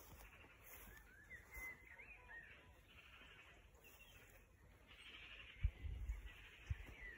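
Faint outdoor quiet with a few short, high bird chirps in the first half and again near the end. A few low thumps come in the last second or so.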